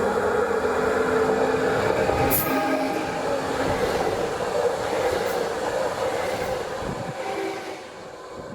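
Train running through the station, its wheels and wagons making a steady loud noise with some tonal ringing, dying away over the last second or two.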